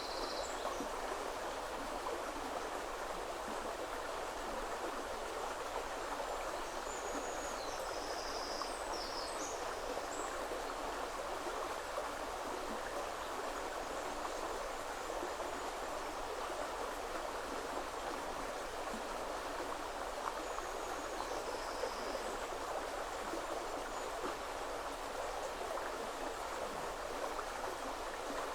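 River water flowing steadily over stones, a constant even rush. Short high-pitched bird calls come through three times: at the start, about eight seconds in, and about twenty-one seconds in.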